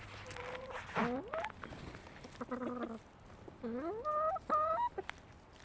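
Backyard hens clucking and calling: a few short rising calls, then a cluster of held, drawn-out notes near the end, with a few sharp clicks between them.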